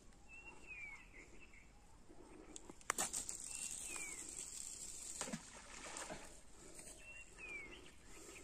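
A bird calling again and again, a short note and then a downward slur about every three seconds, over a steady faint high hiss. One sharp click comes about three seconds in.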